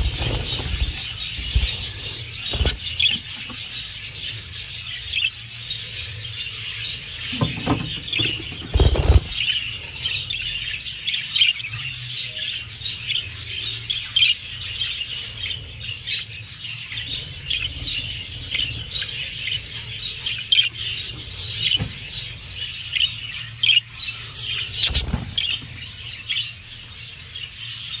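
Parrot chicks squealing and chattering continuously, the begging calls of young birds being hand-fed. A few dull thumps come about a third of the way in and again near the end.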